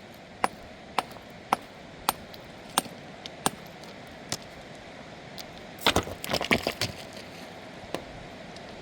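A series of sharp knocks, roughly two a second, followed about six seconds in by a quick burst of clattering impacts.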